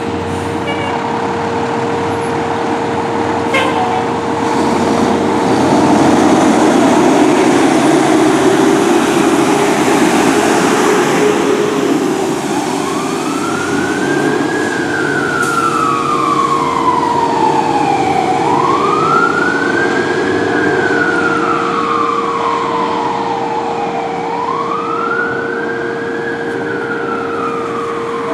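Fire truck (ladder truck) passing under way, its engine and road noise loudest a few seconds in. About halfway through its siren starts long slow wails: each one rises quickly, then falls away gradually, three times. A steady tone sounds underneath throughout.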